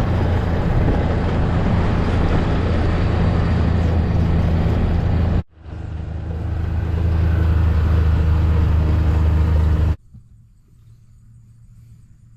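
A motor vehicle engine running steadily with a deep hum, heard in two clips split by a sudden cut about five seconds in; in the second clip it grows louder. Near the end it cuts off abruptly, leaving only a faint background.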